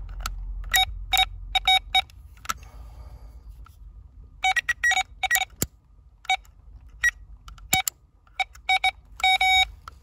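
Electrical circuit tester beeping in short, irregular bursts as its probe touches a circuit, with a slightly longer beep near the end. The mechanic reads the beeping as a strong short to ground in the car's wiring.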